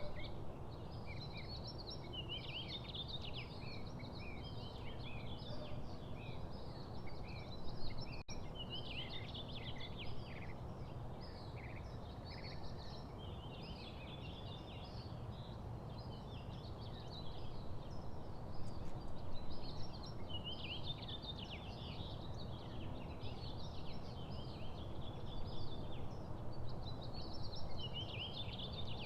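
Small songbirds chirping and twittering busily, many short overlapping calls throughout, over a steady low background hum.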